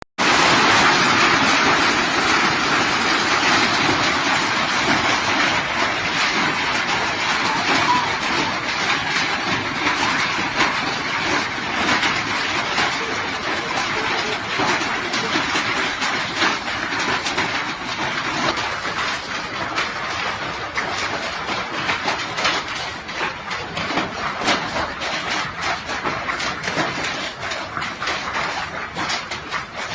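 Hailstorm: hailstones and rain falling hard, a dense rushing patter full of sharp ticks of stones striking. In the second half the rush eases and the separate impacts stand out more.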